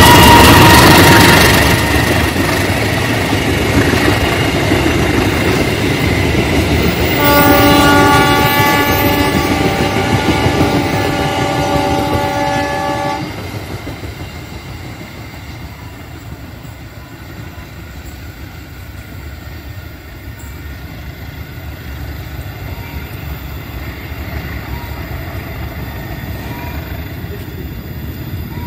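Passenger train hauled by a CC 203 diesel-electric locomotive passing close by, loud engine and wheel noise at first. About seven seconds in, the horn sounds one steady multi-tone blast for about six seconds while the train pulls away, then the rumble fades.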